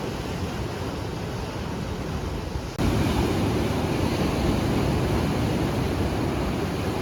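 Ocean surf washing onto a beach, with wind rumbling on the microphone. About three seconds in, the sound jumps abruptly louder.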